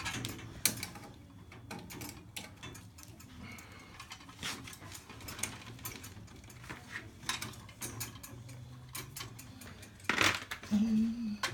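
Scattered light clicks and taps of small parts and tools being handled during electrical wiring work, over a faint steady low hum, with a louder clatter about ten seconds in.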